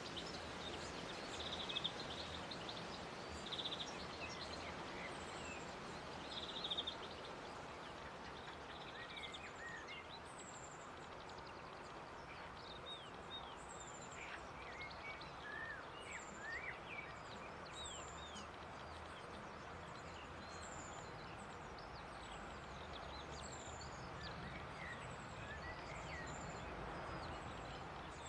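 Small birds giving repeated thin, high chirps over steady outdoor background hiss, with a few short buzzy calls in the first several seconds.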